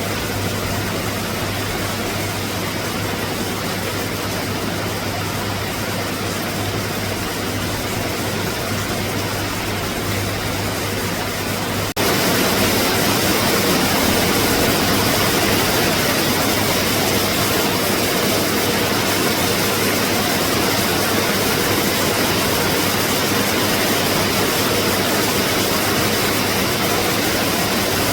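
Steady hiss of rain falling on the sea, with a low steady hum beneath it at first. About twelve seconds in it cuts abruptly to a louder, fuller stretch of the same rain noise without the hum.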